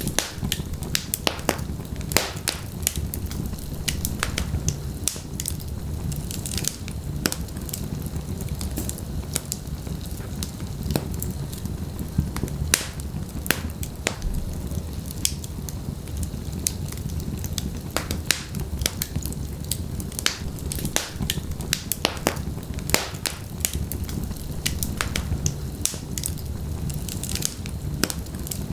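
Wood fire burning in a fireplace: a steady low rumble of flames with irregular sharp crackles and pops from the burning logs, a few a second.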